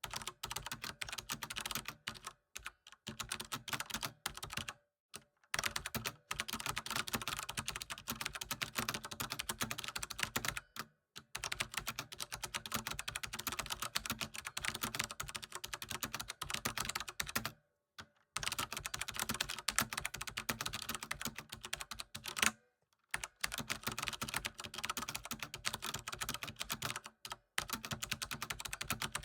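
Computer keyboard typing: fast, continuous key clicks in runs of several seconds, with brief pauses between them.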